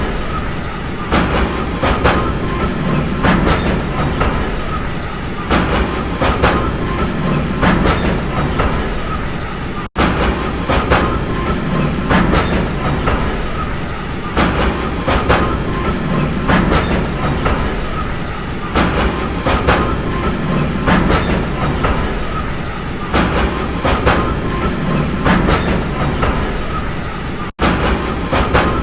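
Train running along the track: a steady rumble with a rhythmic clickety-clack of wheels over rail joints, the clicks coming in pairs about once a second, and a faint steady whine. The sound cuts out for an instant about ten seconds in and again near the end.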